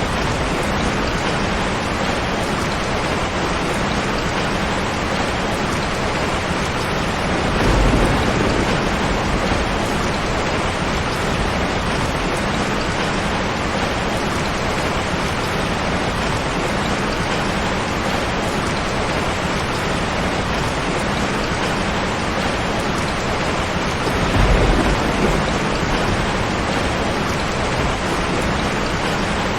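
Steady heavy rain falling in a rain forest, an even hiss and patter. Two brief low rumbles rise above it, about eight seconds in and again near twenty-five seconds.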